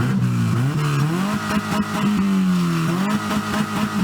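Car engine revved through its exhaust, the pitch rising and falling several times as the throttle is worked.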